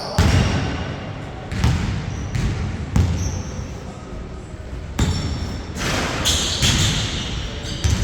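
A basketball bouncing on a hard court several times at uneven intervals, each bounce echoing in a large hall.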